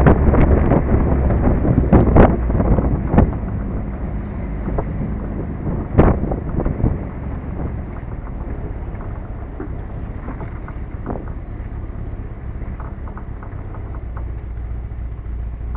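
1967 MGB's 1.8-litre four-cylinder engine running at low speed, with wind buffeting the microphone in the open car for the first few seconds. A single sharp knock comes about six seconds in, then the engine settles to a steady, quieter low note as the car slows.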